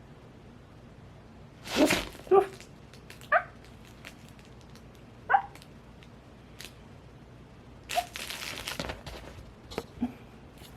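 Cockapoo puppy giving a few short, high barks during play, about two, three and five seconds in, with a burst of rustling scuffle noise later on.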